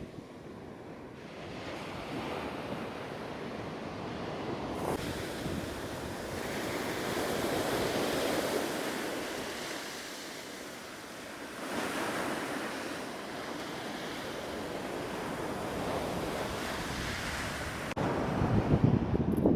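Ocean surf washing onto the beach in long swells that build and fade, the loudest about eight seconds in and again near the end. Wind rumbles on the microphone as the last swell comes in.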